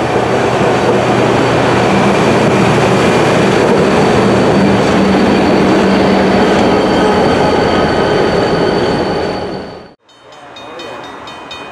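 Passenger train rolling close past: a loud, steady rumble of wheels on rail mixed with the drone of the Reading & Northern GP39RN diesel locomotive's engine as it goes by at the rear of the train. The sound falls away and cuts off abruptly about ten seconds in, giving way to a much quieter background.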